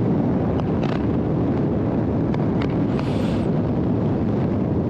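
Riding noise from a Harley-Davidson Road Glide Limited's V-twin engine running at a steady cruise, mixed with wind rush on the microphone. A brief higher hiss comes about three seconds in.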